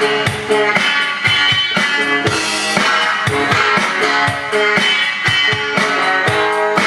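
Guitar music with a steady beat of drums, played without singing.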